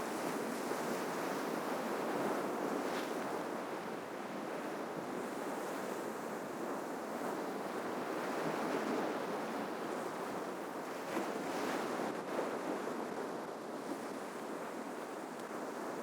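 Sea surf washing steadily onto the shore, an unbroken rush of breaking waves with a few small splashes over it.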